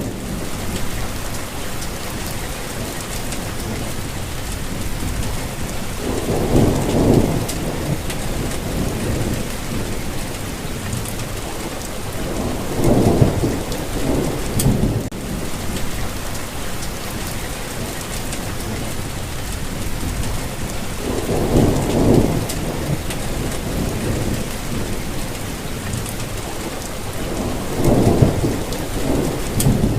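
Steady rain with a continuous hiss, broken four times by low rumbles of distant thunder that swell and fade over a second or two.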